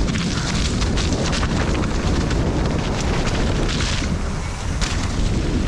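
Wind buffeting the microphone of a rider's camera during a fast mountain bike descent, a loud steady rumble with the bike's tyres and small clicks and rattles over rough ground mixed in.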